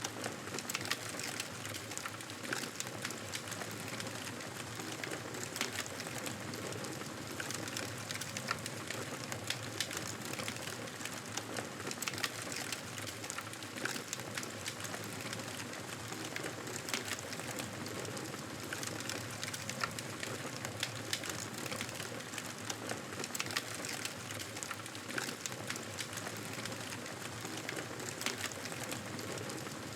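Wood fire crackling: a steady hiss with frequent small, irregular pops and snaps.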